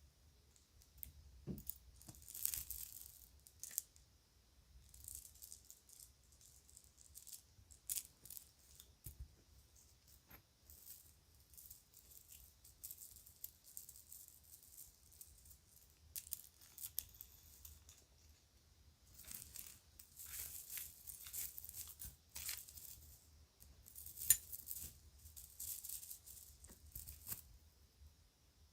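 Small pieces of children's jewelry rattling and clinking together as they are handled, with a bag rustling, in irregular bursts with short pauses; a sharper click stands out a little after midway.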